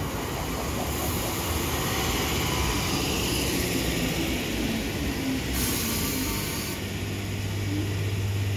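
ScotRail suburban electric multiple-unit passenger train running past along the platform, its carriages rolling over the rails. A steady low hum sets in near the end.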